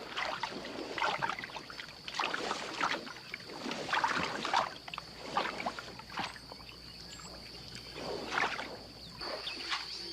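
Wet squelching and sloshing footsteps on a floating peat mat, coming irregularly every second or two, with a steady high insect drone behind.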